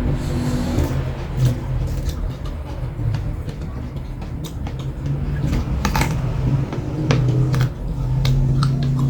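Close-miked eating sounds: short crunching clicks and mouth noises scattered through, over a steady low hum that comes and goes.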